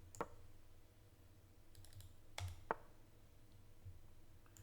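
Computer mouse clicks: three sharp clicks, one a quarter second in and two close together about two and a half seconds in, over a faint steady hum.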